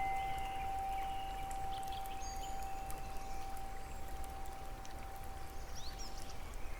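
Rain falling steadily with light drop patter, while a single chime tone rings and holds for about six seconds before dying away near the end. A few faint high chirps, like a bird's, come through.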